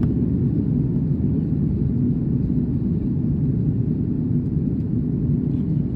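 Steady low rumble of airliner cabin noise in flight, the engines and airflow heard from inside the cabin.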